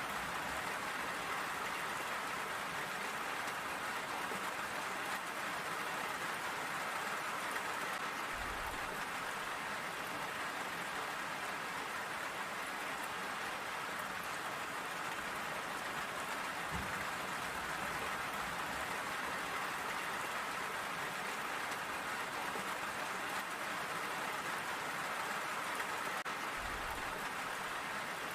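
Steady rain falling, a dense even hiss of drops without let-up, with a faint low bump three times.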